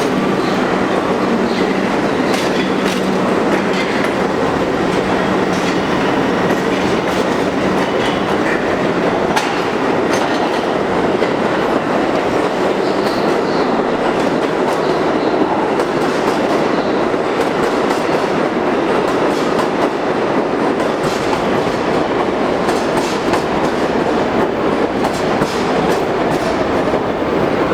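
R62 subway car running through the tunnel, heard from on board: a steady rumble of wheels on rail with repeated clicks over rail joints. Near the end a whine falls in pitch as the train slows.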